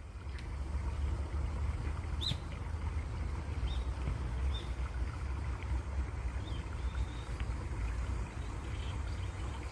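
Flowing water running steadily with a low rumble, and birds giving short high chirps scattered through it, the clearest about two seconds in.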